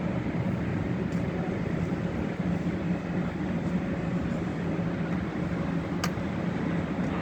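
Boeing 787-9 airliner coming in to land, a steady jet engine rumble. A brief click about six seconds in.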